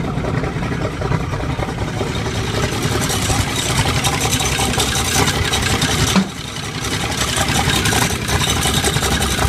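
A loader's Cummins diesel engine running just after a cold start, a steady dense rumble; the sound drops briefly about six seconds in and then comes back.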